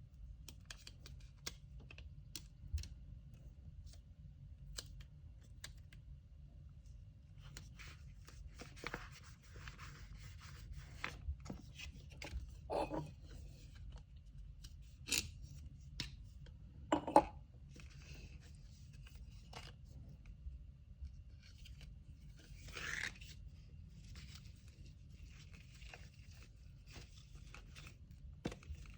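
Hands packing an order with paper materials: kraft paper rustling and being handled, with scattered light clicks and taps and a few short louder rips or snips, the sharpest about 17 seconds in and a longer rasping tear a little later.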